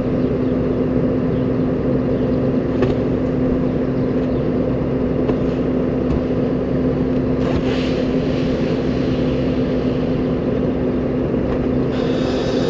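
Tractor engine running at a steady speed with a constant hum. High metallic squeaking starts near the end.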